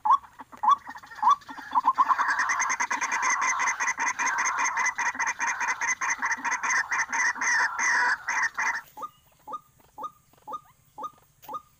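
White-breasted waterhen calling: a short rising note repeated about twice a second, breaking after about two seconds into a fast, harsh run of calls that lasts some seven seconds, then dropping back to single repeated notes.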